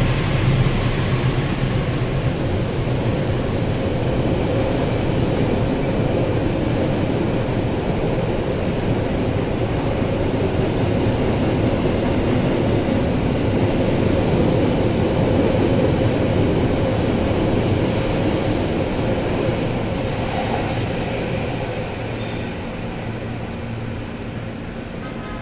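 Train coaches rolling past at speed: a steady rumble of steel wheels on the rails, with a faint high squeal about two-thirds of the way through. The sound fades near the end as the last coach moves away.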